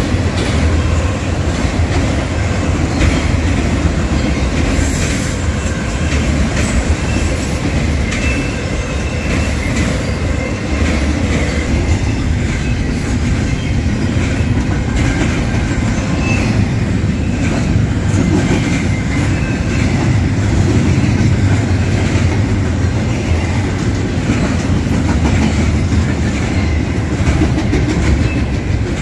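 A freight train's cars rolling past close by: a steady loud rumble with the clickety-clack of wheels over rail joints, and brief faint high squeals of wheels on rail.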